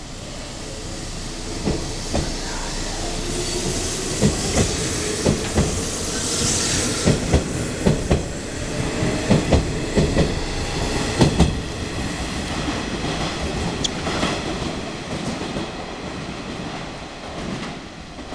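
Nishitetsu 6000-series four-car electric train pulling away from a station platform. A rising motor whine comes as it gathers speed, and the wheels clack over rail joints in quick pairs as the cars pass close by. The rumble then fades as it goes away.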